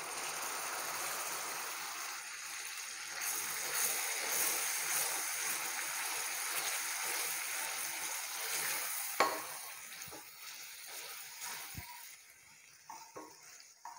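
Boiled tomatoes sizzling as they hit hot ghee and whole spices in a stainless steel frying pan and are stirred with a wooden spatula. The sizzle dies down about ten seconds in, with a sharp knock just before and a few faint spatula knocks near the end.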